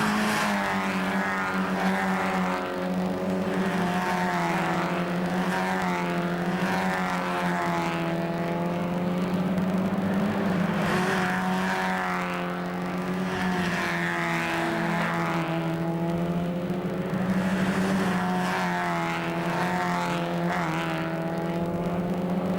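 Mazda MX-5 cup race cars at racing speed, engine pitch rising and falling over and over as they rev through the gears and pass by. A steady low drone runs underneath.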